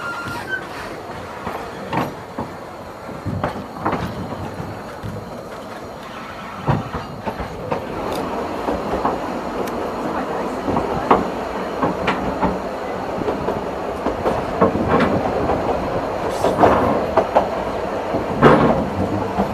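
Narrow gauge steam train running along the line, its wheels clicking and knocking irregularly over the rail joints above a steady rumble. The running noise grows louder from about seven seconds in.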